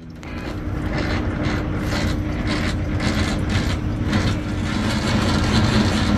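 Diesel engine running with a dense mechanical clatter over a steady hum, heard inside a semi-truck's cab.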